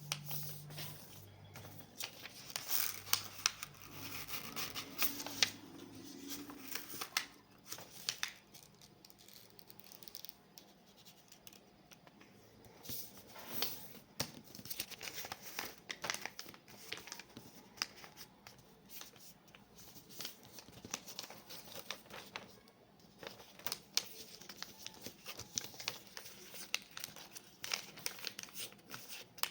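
A sheet of paper being folded by hand into a paper airplane: irregular rustles and sharp crinkles as it is handled and the folds are creased.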